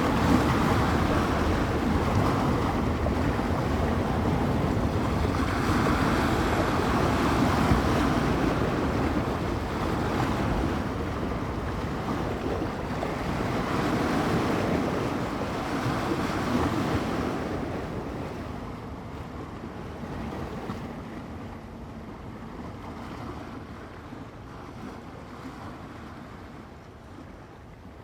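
Small bay waves washing in against the shore, a surge every few seconds, with wind buffeting the microphone. The sound fades gradually over the last ten seconds.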